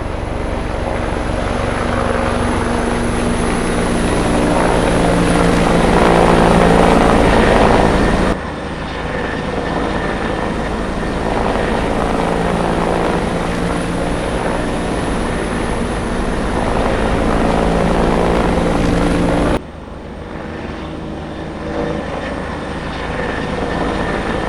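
Helicopter running, a loud steady rotor and engine sound with a faint high whine over it. It changes abruptly twice, about 8 and 19.5 seconds in, as one clip cuts to the next.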